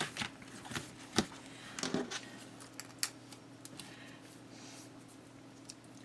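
Crafting paper handled and snipped with scissors: a few sharp clicks and short rustles over the first three seconds, then only a faint steady hum.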